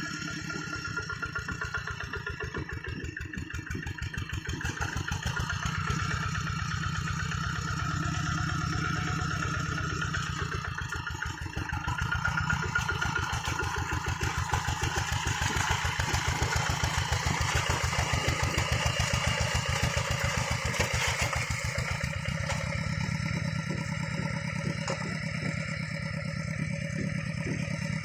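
Hand tractor's single-cylinder diesel engine running with a steady rapid chug, louder through the middle stretch and easing back near the end.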